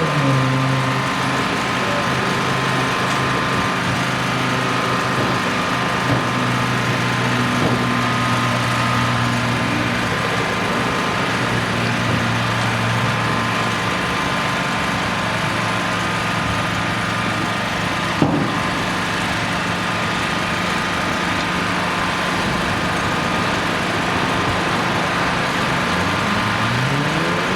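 A vehicle engine idling steadily with a low, even hum. Near the end a vehicle speeds up with a rising pitch, and there is a single knock about eighteen seconds in.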